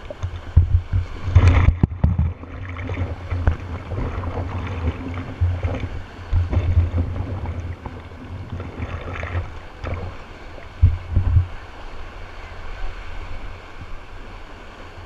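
Rushing, splashing water with wind buffeting the microphone in uneven gusts, loudest about a second in and again near 11 seconds.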